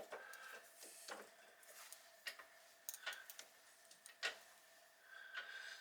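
Near silence with a few faint, scattered light clicks, the loudest about four seconds in.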